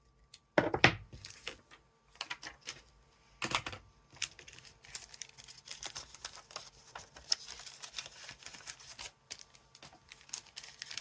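Paper-crafting handling sounds on a desk: two knocks, then a steady run of light tapping, rustling and scratching of paper and stamping tools.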